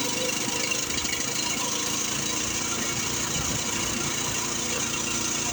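Coleman CT200U-EX minibike's small single-cylinder four-stroke engine running steadily, still on part choke after a cold start.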